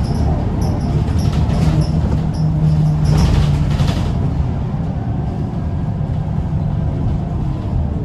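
Scania L94UB bus's diesel engine running under load as the bus drives along, a steady drone that swells about three seconds in and then eases a little.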